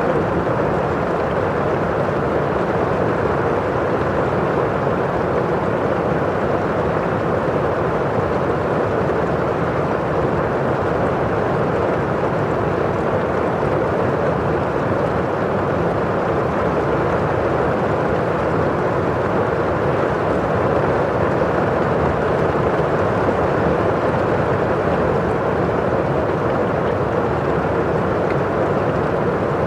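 Rain on a window pane, a steady, dull rush with no separate drops standing out.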